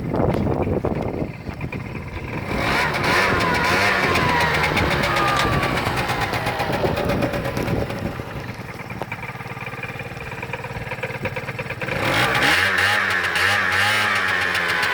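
SYM Jet Sports 50 SR scooter's 50 cc two-stroke engine running and being revved, its pitch rising and falling. It drops back for a few seconds, then is revved up again about twelve seconds in.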